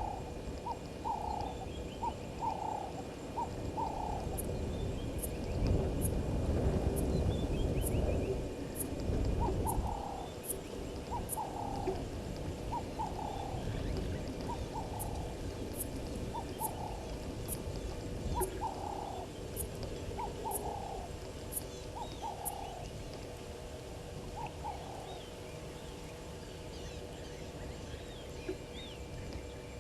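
Short animal calls repeating about once or twice a second at a waterhole, with faint high-pitched ticking above them. A low rumble swells from about five to ten seconds in.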